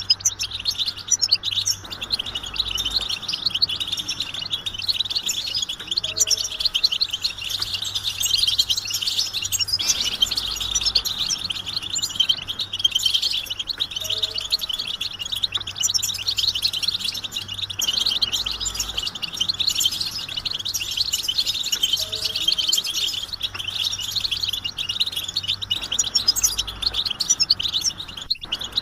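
A flock of European goldfinches twittering and singing together in a dense, unbroken chorus of rapid high chirps, the group calling that goldfinch keepers play to stir a silent male into song.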